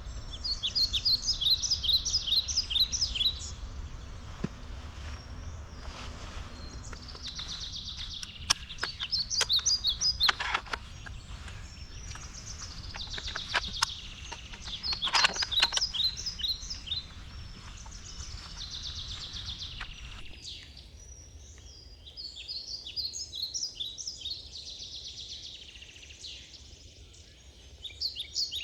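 A songbird singing short high trilled phrases of rapid notes, repeated every few seconds. A few soft clicks come in the middle.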